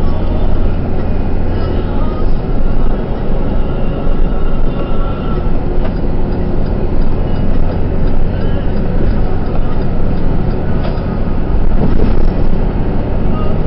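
Truck engine and road noise heard inside the cab: a loud, steady rumble.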